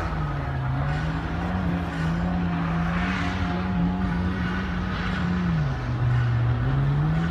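A car engine held at high revs, its pitch wavering; it drops about five and a half seconds in, then climbs again near the end.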